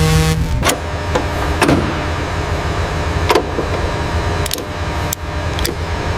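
A steady low hum with irregular sharp clicks and knocks, about eight of them spread out, like workshop handling of metal parts.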